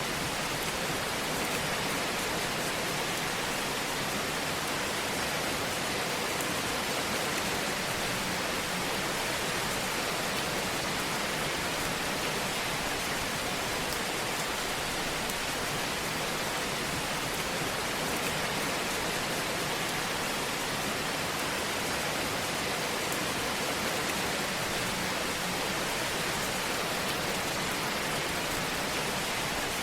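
Wood fire burning in a fireplace: a steady, even hiss with faint scattered crackles.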